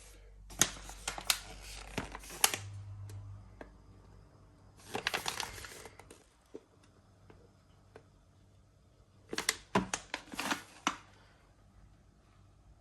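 Miele W1 front-loading washing machine in its wash cycle: the drum turns in three short bouts with pauses between, each bout a swishing, sloshing rush of tumbling laundry with sharp clacks against the drum, over a low motor hum near the start.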